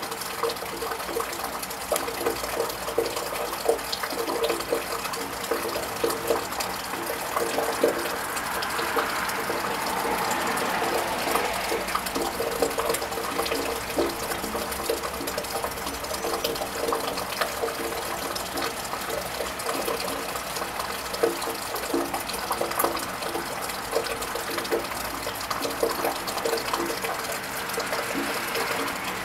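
Steady rain pattering and dripping, with many small taps. A car passes on the wet road from about a quarter to nearly halfway through, its tyre hiss swelling and fading, and another begins to approach near the end.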